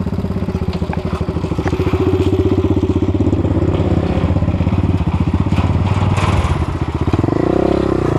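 Enduro motorcycle engine running steadily at low revs, with the revs rising and falling near the end.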